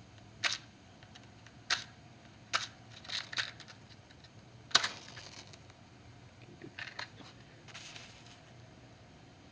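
A string of sharp clicks and short scrapes from small objects being handled, about a second apart at first and then sparser, ending in a brief scratchy hiss, over a faint steady low hum.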